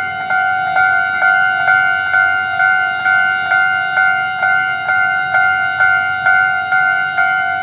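Railway level-crossing warning bell ringing, an electronic two-tone ding repeating steadily a little over twice a second.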